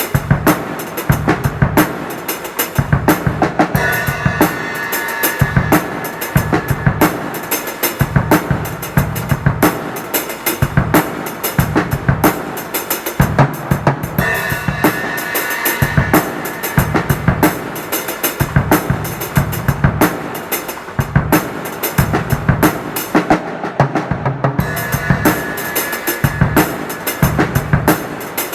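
Drum kit played in a steady, fast groove: bass drum and snare strikes with rimshots and cymbals, on a poor-quality kit. A high ringing tone comes in three times, at about four, fourteen and twenty-four seconds.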